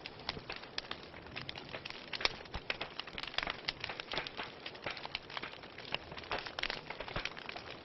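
Wood fire burning in a fireplace, crackling and popping irregularly over a steady hiss of flames.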